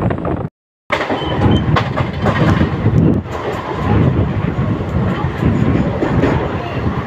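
Mumbai suburban electric multiple-unit (EMU) local train running on the rails, a steady rumble with scattered clicks of the wheels over rail joints. The sound drops out completely for a moment about half a second in, then resumes.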